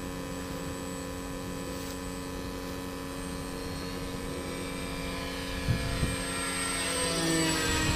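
A 500-watt electric pusher motor with a 7x5 propeller on a foam RC model airliner, whining steadily in flight. It grows louder in the last few seconds as the model comes closer, and its pitch slides slightly down.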